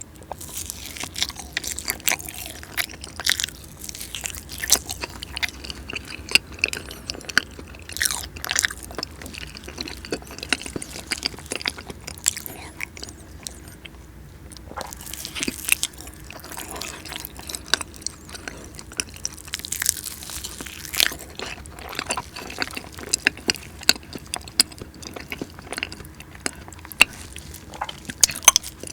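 Close-miked eating of cheesecake: irregular bites, chewing and wet mouth smacks.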